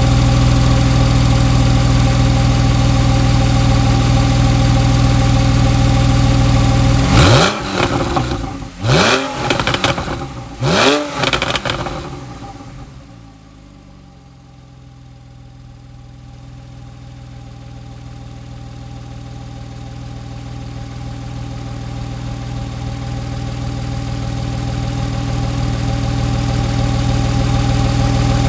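Porsche 911 Carrera's flat-six engine with sports exhaust idling steadily, then blipped three times in quick succession, each rev rising sharply and dropping back. It settles back to idle, quieter at first and growing gradually louder toward the end.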